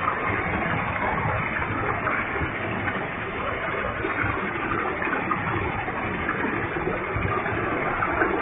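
Large waterfall with heavy flow: a steady rush of falling, splashing water, without pause or change.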